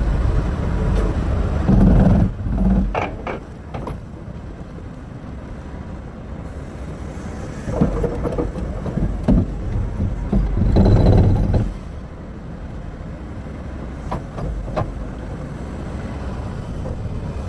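Terex RH30F hydraulic excavator working: its diesel engine rumbles and swells under load twice, loudest about two seconds in and again around eleven seconds, with several sharp knocks of stone against the steel bucket or rock in between.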